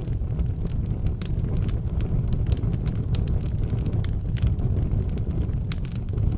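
Wood fire burning in an outdoor fireplace: a steady low rumble of flames with frequent, irregular sharp crackles and pops from the burning wood.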